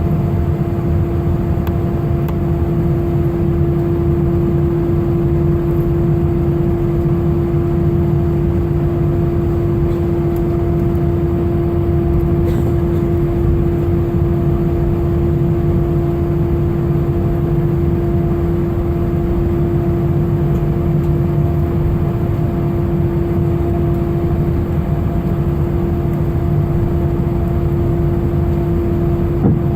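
Jet airliner's engines heard from inside the passenger cabin: a loud, steady drone with a deep rumble and a constant hum that holds one pitch without rising or falling.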